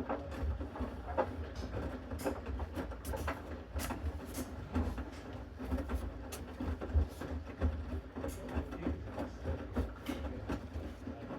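Bosch Series 6 front-loading washing machine in its main wash: a steady low motor hum as the drum turns, with irregular soft knocks and clicks as the wet load tumbles.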